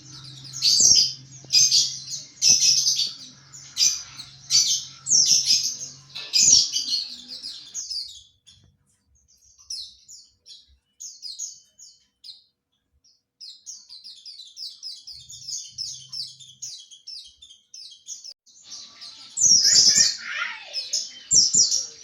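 White-eye (pleci) twittering in the rapid, high chirps that keepers call 'ngriwik'. The chirping is dense and loud at first, turns sparser and quieter about a third of the way in, then grows loud again near the end.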